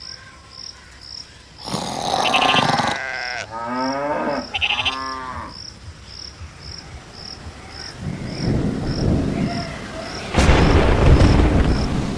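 A few drawn-out, low animal calls, like cattle lowing, in the first half, over an even high chirping about twice a second. Two bursts of low rumbling noise follow in the second half, the later one the loudest.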